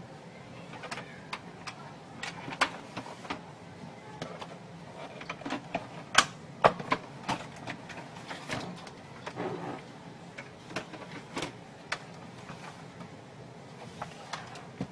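Irregular plastic clicks and knocks from a Canon G2000 inkjet printer, sharpest and most frequent in the middle.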